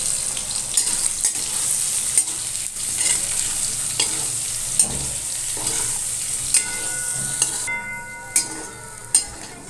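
Soya chunks frying and sizzling in hot refined oil in a steel kadhai, stirred with a steel spatula that scrapes and clinks against the pan. The sizzle drops away near the end.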